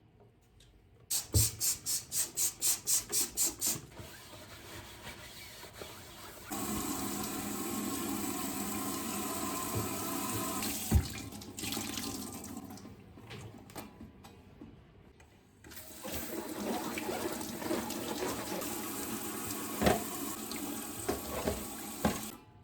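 Water running from a tap into a sink in two long stretches, with scattered clicks and knocks. Near the start there is a quick run of about a dozen loud pulses, roughly four a second.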